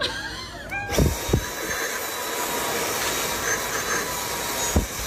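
A machine starts running about a second in: a steady rushing noise with a thin, even whine. A few low thumps come as it starts and again near the end.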